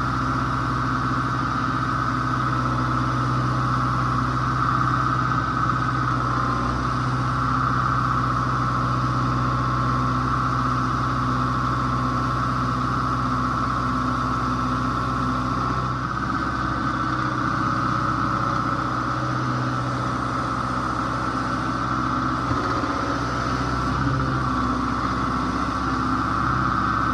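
Tractor engine running steadily while the bucket works, with a steady high whine above the engine note.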